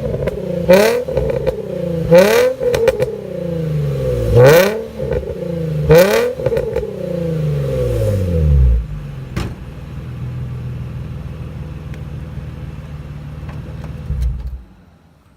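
Nissan 350Z's VQ35DE V6, running through 370Z headers, test pipes and a Nismo exhaust, revved sharply several times with a raspy note at each peak. It then settles to a steady idle, and the sound cuts off near the end.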